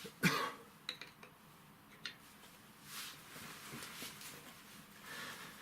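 Hand tools and metal parts handled while bolts are undone on a truck starter motor: a sharp metal knock just after the start, scattered light clicks, and two short rasping scrapes.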